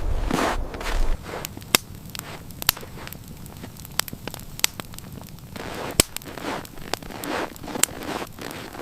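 Wood fire crackling, with sharp, isolated pops about once a second over a soft hiss, and swells of rustling movement at the start and near the end.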